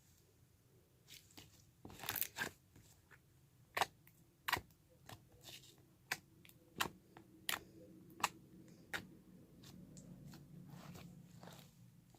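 Clear glue slime being squished and stretched by hand, giving about a dozen sharp, irregular clicks and pops, the loudest cluster about two seconds in.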